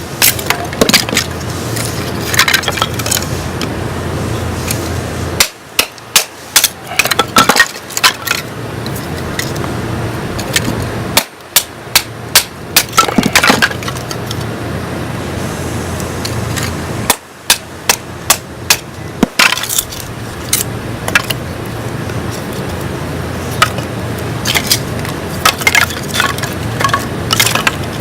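Firewood being split with a bushcraft knife by batoning: repeated sharp knocks and the crack of wood splitting, in several bursts.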